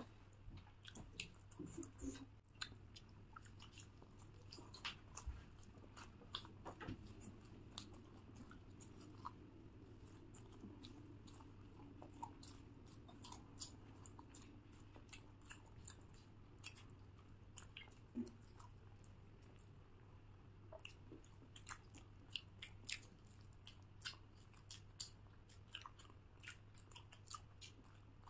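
Faint chewing and mouth clicks of people eating, many small irregular clicks and smacks over a low steady hum.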